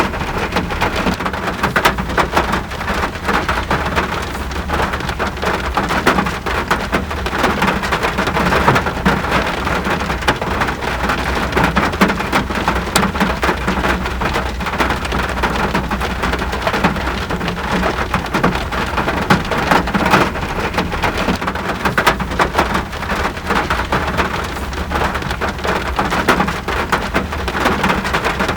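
Steady rain falling, with many individual drops ticking close by on a surface.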